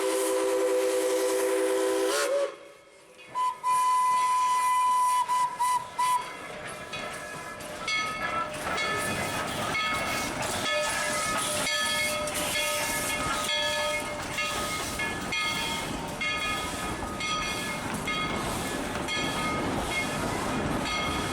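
Steam train whistle blowing a chord of several tones for about two seconds, then a single higher whistle tone for a few seconds. After that comes the steady rattle and clatter of the train running on the rails.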